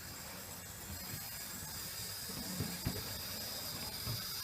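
Hornby model locomotive's small electric motor running on its track: a faint steady hum with a high whine, and a few light clicks about three seconds in.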